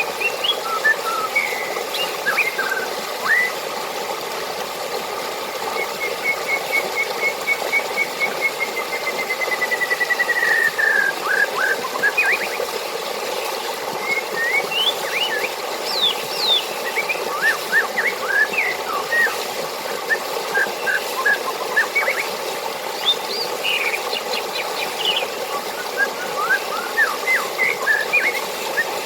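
Running water with birds calling over it: many short chirps and whistles throughout, and from about six seconds in a long run of rapid repeated notes that speeds up and slides slightly lower over about five seconds.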